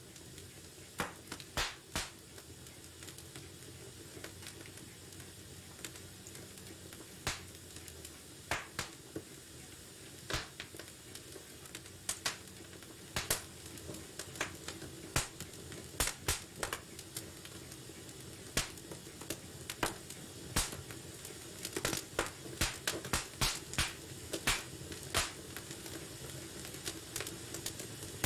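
Wood fire burning in a fireplace: a steady low hiss with sharp crackles and pops, scattered at first and coming more thickly in the second half.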